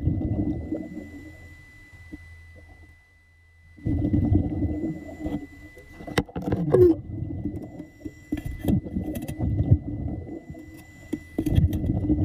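Muffled, low churning and gurgling of water in surges, as heard with the microphone in or at the water, with scattered sharp clicks and a brief quiet gap.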